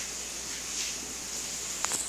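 Steady rain falling, heard as an even hiss, with one short click near the end.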